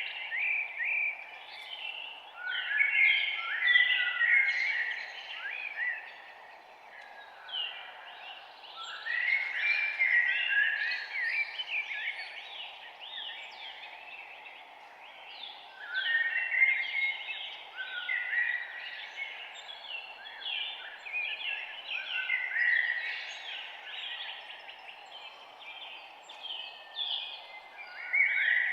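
Birds chirping and singing in bursts of rapid overlapping calls every few seconds, over a steady background hiss.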